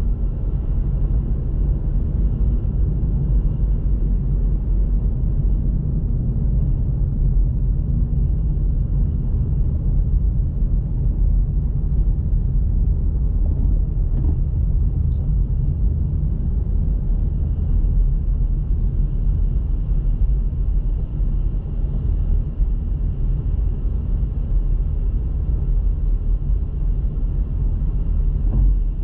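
Steady low rumble of a car being driven, its engine and tyre noise running evenly throughout.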